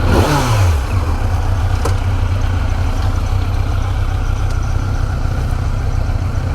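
Motorcycle engine: a quick rev that falls away in the first second, then a steady low engine rumble.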